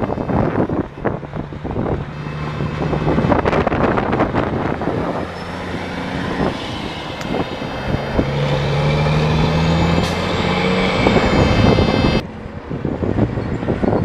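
Dump truck's diesel engine pulling past, its note climbing as it accelerates, with wind buffeting the microphone. The sound drops off suddenly near the end.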